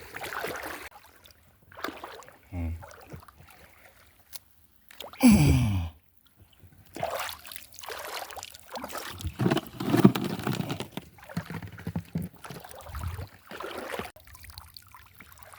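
Water sloshing and splashing in irregular washes, typical of moving through shallow water or around a small boat, with one short loud burst about five seconds in that falls in pitch.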